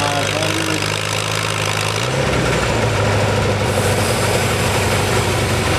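Allis-Chalmers WC farm tractor's engine running hard while pulling the weight-transfer sled. The engine note drops and turns rougher about two seconds in.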